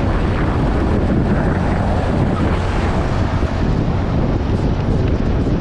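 Wind rushing and buffeting over the microphone on a moving motorcycle, a loud steady roar mixed with the bike's road noise.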